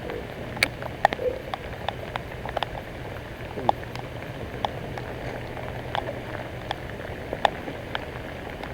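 Rain falling steadily, with scattered heavier drops ticking sharply at irregular intervals on the boat and water. A faint steady low hum runs underneath and fades out about two-thirds of the way through.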